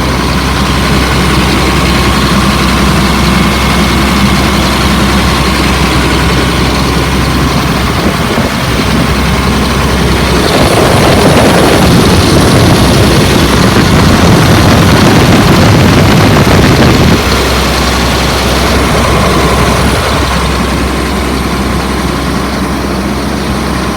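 2004 Blue Bird All American school bus engine running steadily on a fast idle, held higher than normal idle. From about ten seconds in, a louder rushing noise covers it for several seconds before the steady idle comes back.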